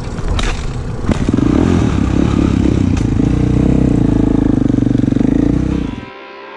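KTM 525 EXC supermoto's single-cylinder four-stroke engine running close to the mic as the bike is ridden slowly, with a steady rapid pulsing and a few sharp knocks in the first few seconds. The engine sound cuts off about six seconds in.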